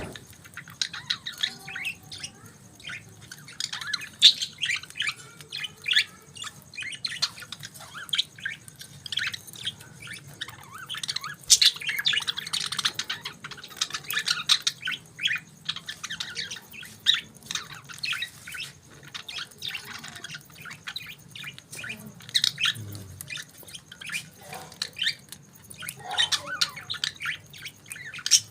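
Several budgerigars chirping and warbling without pause, a dense chatter of short, quick calls with occasional harsher squawks.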